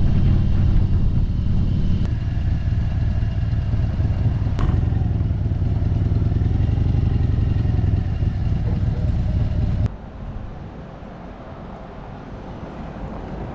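Motorcycle engine running with a steady low rumble, with a couple of brief clicks; about ten seconds in it drops away sharply, leaving a quieter background.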